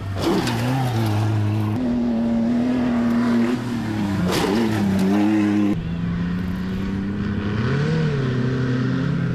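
Pre-runner truck engines revving under hard off-road driving, the pitch rising and falling, with two brief loud rushes of noise about half a second in and again near four and a half seconds.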